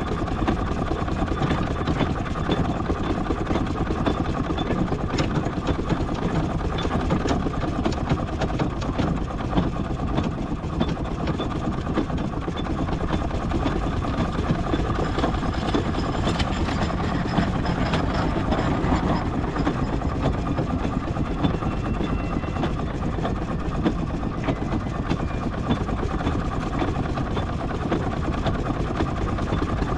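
Miniature steam traction engine running steadily as it crawls along in bottom gear, a continuous mechanical rumble with no pauses.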